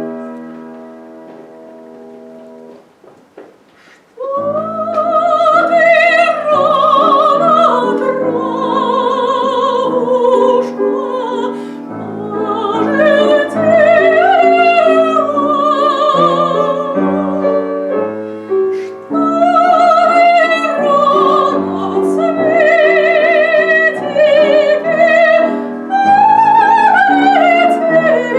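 A piano chord rings out and fades. After a short pause, a classical-style singer with a strong vibrato comes in about four seconds in, accompanied by piano.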